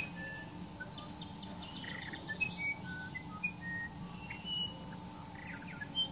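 Small birds chirping: many short, clear high notes at shifting pitches, scattered throughout, over a steady low hum.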